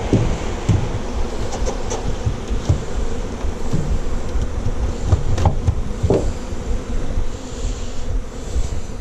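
Honeybees buzzing in numbers around an open hive, a steady drone, with a few short knocks from the hive being handled.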